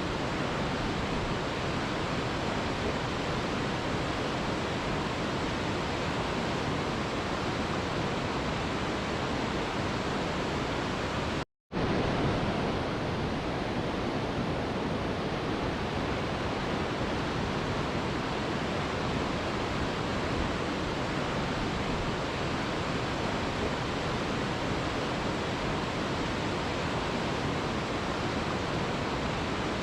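Waterfall rushing: a steady, even hiss of falling water with no distinct splashes. It cuts out completely for a split second about eleven seconds in, then carries on unchanged.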